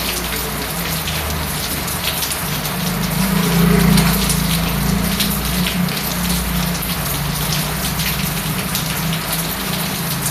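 Rain falling on a surface: a steady hiss dotted with separate drop hits, over a low steady hum that swells for a moment about three to four seconds in.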